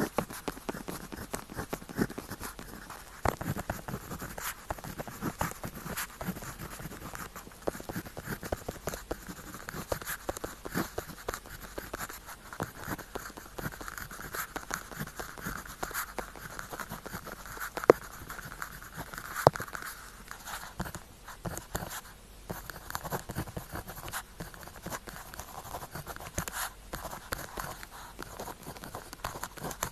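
Pen tip writing on paper, a close, continuous run of small scratches and ticks, with a longer scratchy stroke through the middle and two sharper taps a little past halfway.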